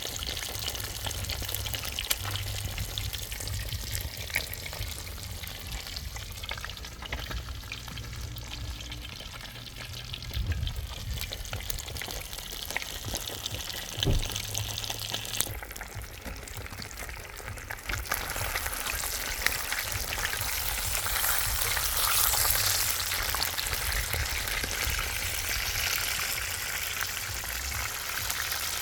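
Fish frying in hot oil, a steady sizzle and crackle that gets louder about two-thirds of the way in.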